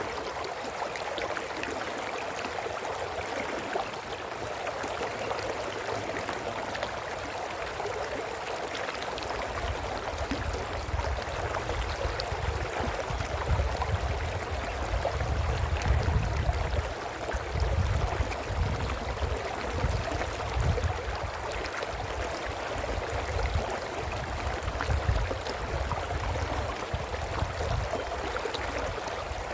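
A brook babbling steadily over rocks. From about nine seconds in, an uneven low rumble rises under it, swells and falls, and fades near the end.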